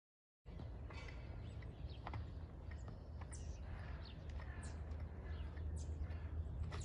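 Silent for the first half second. Then small birds chirp and call again and again over a steady low rumble.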